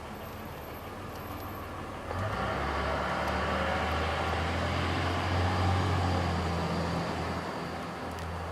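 A motor vehicle running, with a low engine hum and road noise that swells suddenly about two seconds in, is loudest a little past the middle, then eases off.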